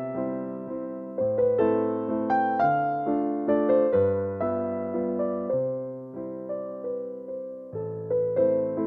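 Piano music: a gentle melody of evenly paced notes over lower notes that change every second or so, each note fading after it is struck.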